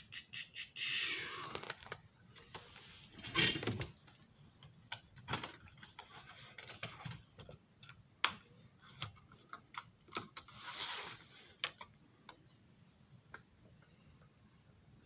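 Handling noises at a workbench: scattered sharp clicks and knocks, a quick run of clicks about a second in, and a few short rustling bursts.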